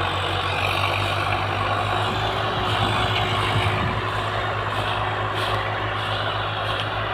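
John Deere tractor's diesel engine running steadily under load, pulling a heavily loaded trolley.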